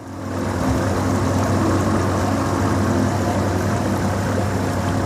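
Motorboat engine running steadily under way, with a steady hum and a rushing of water and wind over it.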